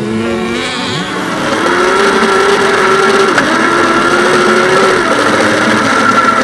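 Autocross race car engine running hard. It climbs in pitch and gets louder about a second and a half in, then dips in pitch twice, about three and a half and five seconds in.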